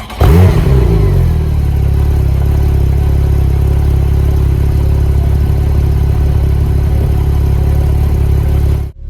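Porsche 911 Turbo (991) 3.8-litre twin-turbo flat-six starting up: the engine catches with a flare of revs that falls over about the first second and settles into a steady idle, which cuts off abruptly near the end.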